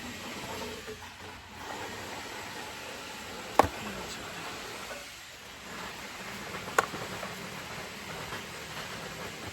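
Two sharp clicks about three seconds apart as car seat parts are handled during reassembly, over a steady background hiss.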